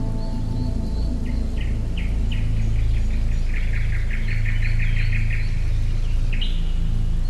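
Songbirds chirping, with a fast trill of about ten notes a second in the middle, over a steady low rumble. The last held guitar notes die away in the first second.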